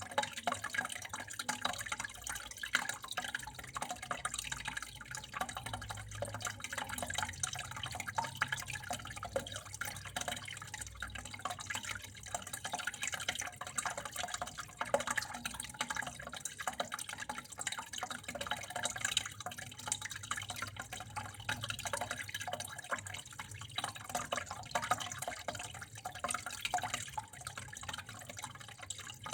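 Water running steadily with a dense patter of small drips and splashes.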